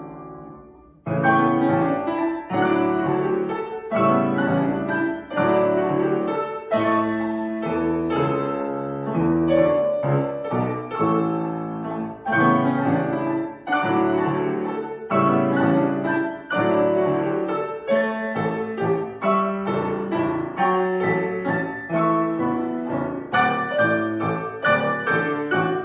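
Acoustic piano playing a classical piece: a held chord fades away, then about a second in the playing resumes with a steady run of struck notes and chords.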